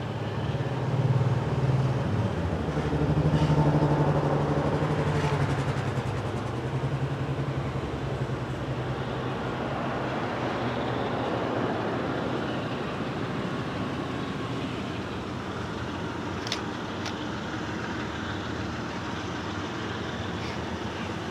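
Diesel freight locomotive engine drone, loudest for the first few seconds and then giving way to the steady rumble of the train rolling past, with a few sharp clicks late on.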